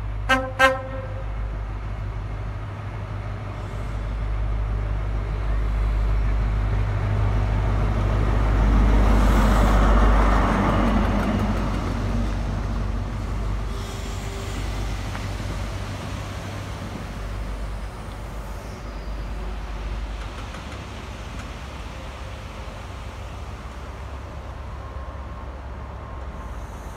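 A train sounds two short horn blasts, then passes through. Its noise swells to a peak about ten seconds in and slowly dies away over a steady deep engine rumble.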